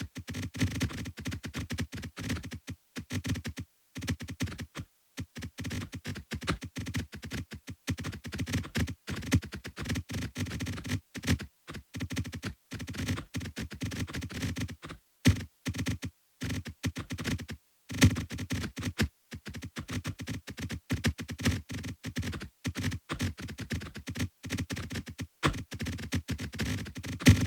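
Rapid, irregular electronic clicks and short synthesized blips, many per second, like fast typing, with a few brief pauses.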